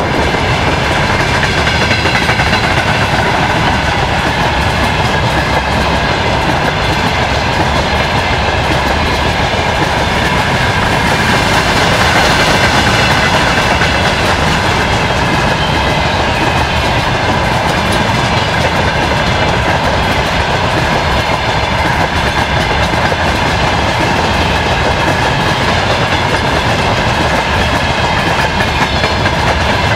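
Freight train wagons rolling past, a steady loud rumble with wheels clacking over the rail joints.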